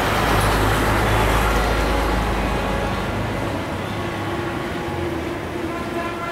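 Train running along the track away from the listener, a deep rumble and rolling noise that fade over the first few seconds. In the second half a faint steady tone comes in.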